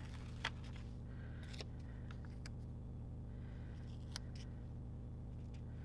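Light paper handling: sticker sheets and planner pages rustling, with a few small sharp clicks and taps, the loudest about half a second in. A steady low hum runs underneath.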